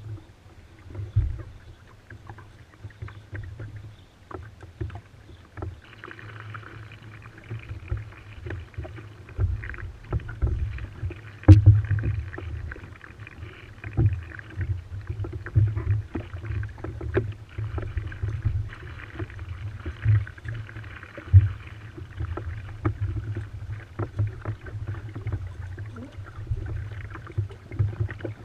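Water rushing and hissing along a sailing proa's hull, stronger from about six seconds in, over a gusty low rumble of wind buffeting the microphone.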